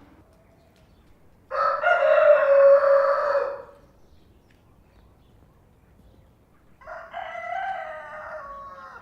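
Rooster crowing twice: a loud crow about a second and a half in, then a quieter crow near the end.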